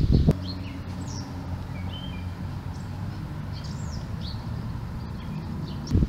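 Small songbirds chirping in short, scattered calls, some sliding down in pitch, over a steady low hum. A low thump comes right at the start.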